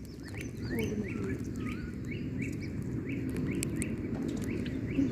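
A bird calling over and over, short chirps about three a second, over a steady low background noise.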